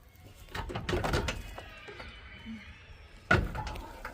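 Parts being pulled off the front of a van by hand: a run of clunks and scraping, faint squeaks, then one sharp knock about three seconds in.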